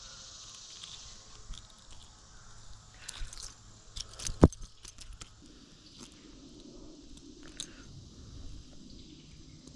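Close handling noises while a small caught fish is unhooked from a spinner lure: scattered small clicks and rustles, with one sharp, loud click about four and a half seconds in.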